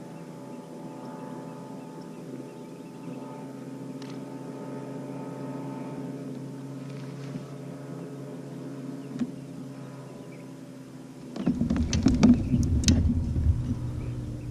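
A motor hums steadily at an even pitch. About three-quarters of the way through, a much louder rough rushing noise with crackles comes in over it.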